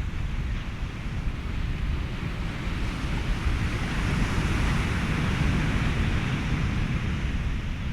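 Ocean surf washing in with wind, blended into steady white noise. A wave swells about three seconds in and eases off near the end.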